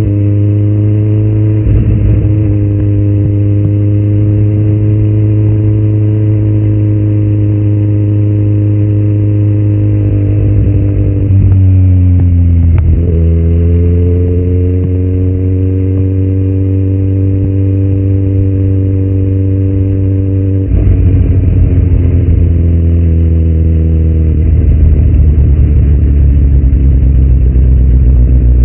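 2018 Kawasaki Z900's inline-four engine through a Yoshimura muffler and Delkevic headers with no dB killer, running under way at a fairly steady pitch. About twelve seconds in the note drops and climbs back up, and about twenty-one seconds in it turns louder and rougher.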